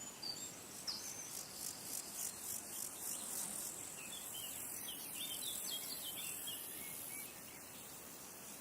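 A high, pulsing insect trill that stops about seven seconds in, with small birds chirping briefly over it near the start and in the middle.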